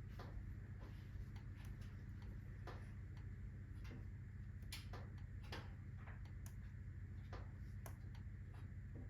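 Wood fire in a fireplace crackling: irregular sharp pops and clicks, a dozen or so, some stronger than others, over a steady low hum.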